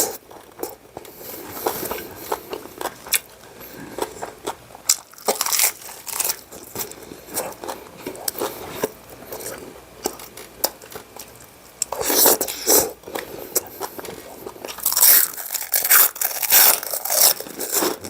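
A person biting and chewing grilled pork ribs and som tam close to the microphone, with wet mouth clicks and crunchy bursts. The loudest clusters of crunching come about two-thirds of the way in and again near the end.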